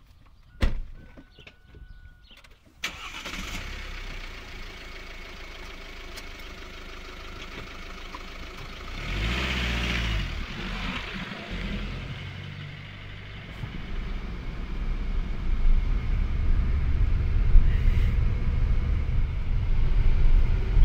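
A sharp click, then a car engine starts about three seconds in and keeps running. It revs briefly around ten seconds and grows louder toward the end.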